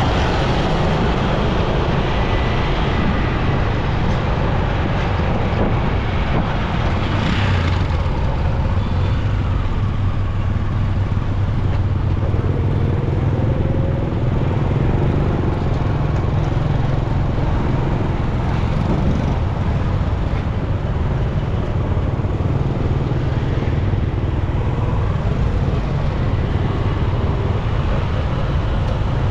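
Motorcycle engine running steadily while riding in road traffic, with the noise of other vehicles around it.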